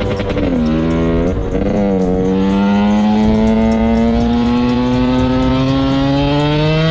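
Motorcycle engine accelerating hard. It shifts up through three gears in quick succession in the first two seconds, each change a drop in pitch, then holds one gear as the pitch climbs steadily.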